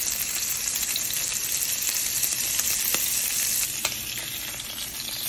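Salmon fillets sizzling steadily as they sear in butter in a frying pan. Light clicks of a metal spatula against the pan about three seconds in, as the fillets are turned.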